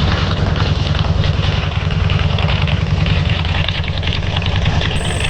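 Large piston radial aircraft engines from warbirds in flight: a steady low drone with a rapid crackle of firing pulses.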